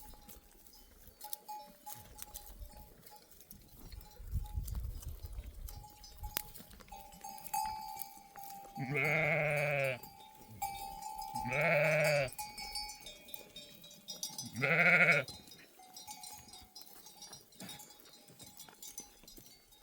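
Sheep bleating three times, each call about a second long and wavering, over the light jingling of the flock's bells.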